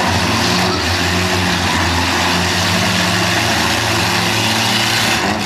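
Demolition derby cars' engines running loudly and steadily, with a dense wash of noise over them.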